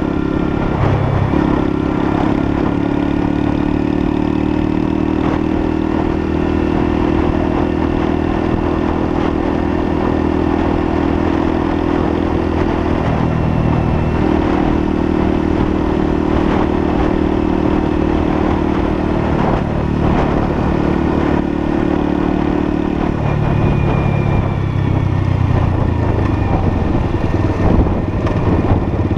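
Lexmoto LSM 125's 125cc engine running steadily on the move, its note dipping briefly about halfway through and dropping again about six seconds before the end.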